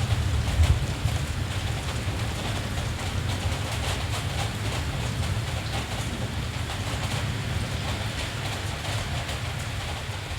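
Steady rain falling, a fine hiss with scattered drop ticks, over a constant low rumble, with one brief louder low thump under a second in.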